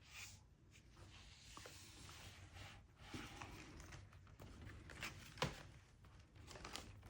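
Faint rustling and soft handling of the paper pages of a handmade concertina book, with a few small clicks and taps, the sharpest about five and a half seconds in.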